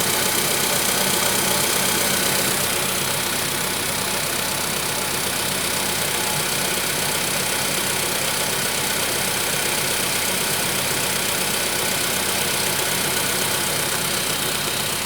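Volkswagen Polo Sedan engine running steadily at idle with a knock, which has appeared about 1000 km after the piston group was replaced.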